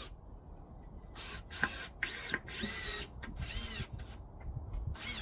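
Power drill running in several short bursts, its motor whine rising and falling in pitch each time, typical of driving fasteners.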